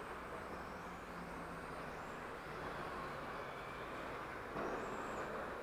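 Electric RC touring cars running on a carpet track: faint high-pitched brushless-motor whines that rise and fall as the cars accelerate and brake, over a steady hiss of tyres and hall noise, a little louder from about four and a half seconds in.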